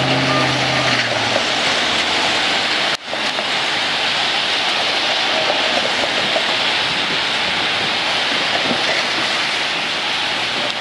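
A train horn's chord cuts off about a second in, followed by the steady rushing roar of a train passing at speed, wheels on rail. There is a brief drop-out about three seconds in.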